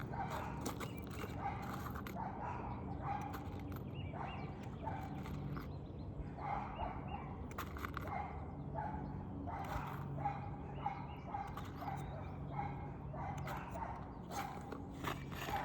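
A dog barking over and over, short barks coming about once or twice a second, over a steady low hum.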